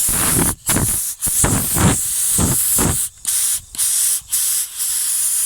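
Compressed air hissing out of a spray gun fed by a workshop air compressor, the trigger pulled in a string of blasts with short breaks between them, about seven in all. The gun is being run as if painting, as a test of whether the compressor holds pressure.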